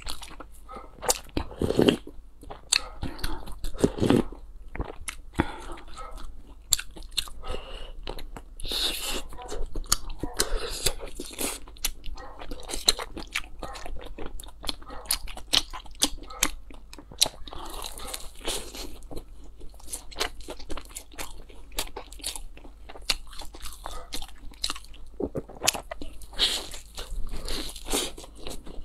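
Close-miked mouth sounds of someone eating crisp fried bread: repeated bites and crunches with wet chewing in between, going on irregularly throughout.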